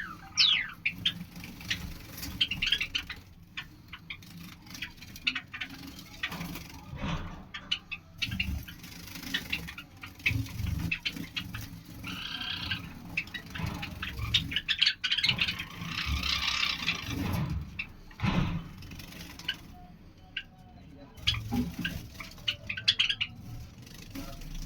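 Lovebirds chirping in short, high, falling calls that come in scattered bursts, over a low background rumble.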